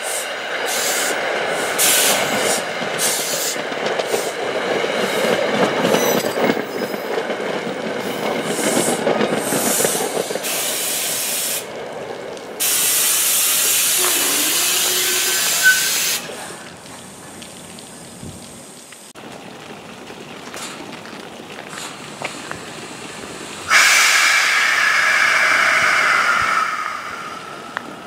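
NJ Transit commuter train of Comet coaches passing, its wheels clattering over the rails for about the first twelve seconds. Then two spells of loud steady hissing, each a few seconds long, start and stop abruptly: one about halfway through and one near the end.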